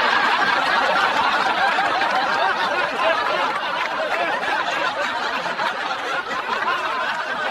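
A crowd laughing together in a dense, steady wash of many voices, easing off slightly towards the end.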